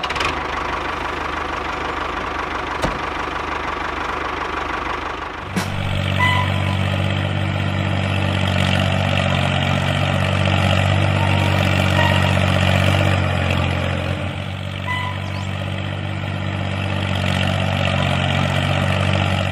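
Miniature DIY tractor running with a steady engine-like drone. About five and a half seconds in, a deeper, fuller hum joins and the sound gets louder.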